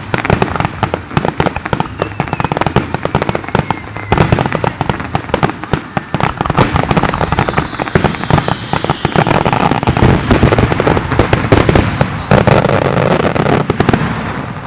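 Aerial fireworks going off in a dense barrage: one rapid bang and crackle after another, with no gap, dropping away just before the end.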